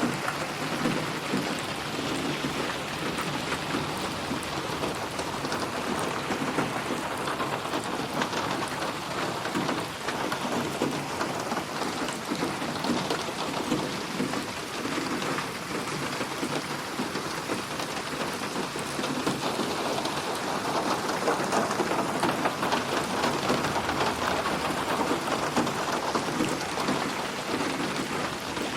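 Steady rain falling on a surface, an even hiss of many drops, growing a little louder in the last third. It is mixed as 8D audio, panned around the listener.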